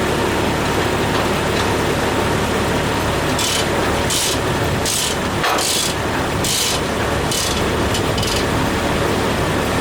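Foley Belsaw M-14 circle sawmill running with its engine turning over steadily, and about seven short, high hissing bursts in the middle.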